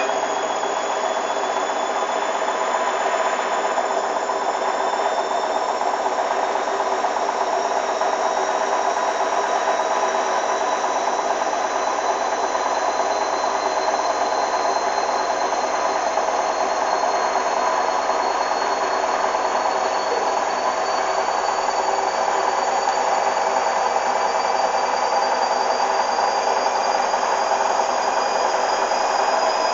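Hoover DYN 8144 D washing machine running, with a steady whirr and a high motor whine that rises slowly in pitch as the drum picks up speed.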